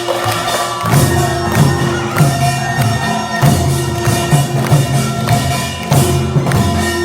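Korean traditional percussion music accompanying a deotbaegi dance: drums struck in a steady repeating beat, with metallic gong and small-gong clatter and a held ringing tone over it.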